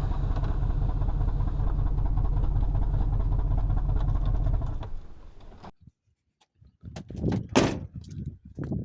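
Pickup truck engine running steadily, fading out about five seconds in. After a short silence come a few sharp knocks and thuds.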